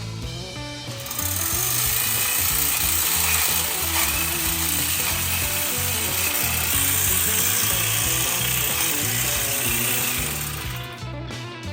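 A power tool runs steadily for about ten seconds while cutting back an overgrown kiwi vine, starting about a second in and cutting off near the end. Background guitar music plays underneath.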